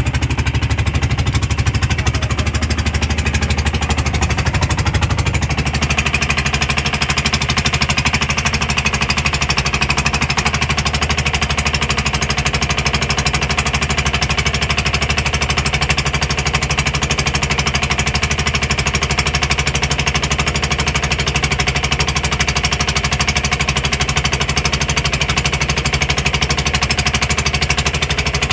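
Small boat's engine running under way with a fast, steady chugging; its note shifts slightly about six seconds in.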